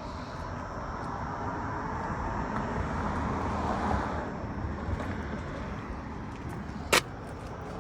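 Outdoor background noise that swells and fades, with one sharp knock near the end.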